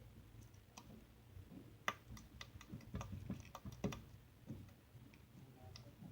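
Slime being squeezed and worked by hand, giving faint, irregular little clicks and pops, the sharpest a little under two seconds in and about four seconds in.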